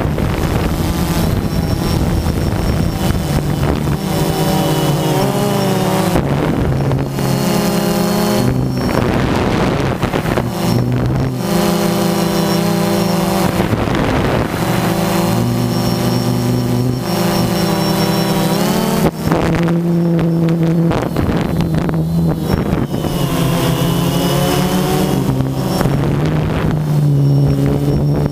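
Quadcopter drone's propellers and motors whining, the pitch shifting up and down repeatedly as the rotors change speed, with wind buffeting the microphone.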